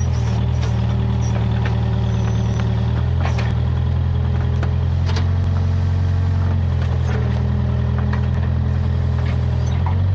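Case 580G backhoe loader's diesel engine running steadily at low revs, with a few faint clanks.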